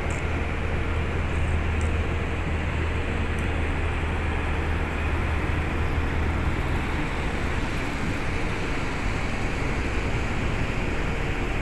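Diesel engine of heavy construction machinery running steadily, a strong low hum that eases a little about seven seconds in.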